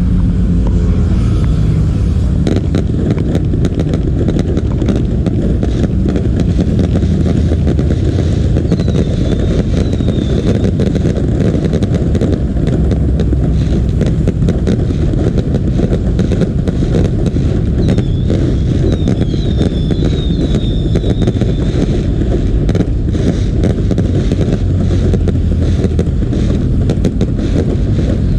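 Fireworks going off in a dense, continuous barrage of bangs and crackling, with short whistles about nine seconds in and again around eighteen to twenty-one seconds in.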